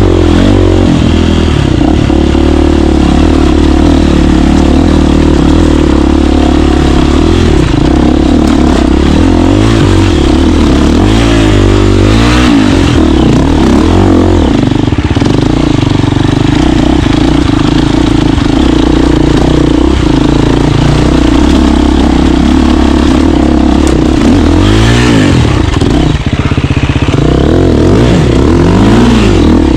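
KTM 350 dirt bike's single-cylinder four-stroke engine running as it is ridden. The engine pitch rises and falls several times as the throttle is worked.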